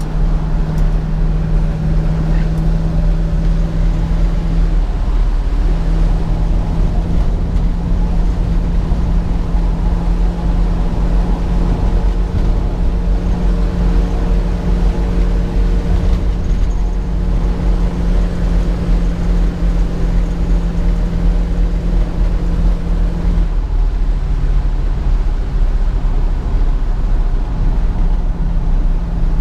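1967 Ford Mustang's 289 V8 engine running at a steady cruise under road rumble. The engine note drops briefly about five seconds in, sits lower for a few seconds near the end, then rises again.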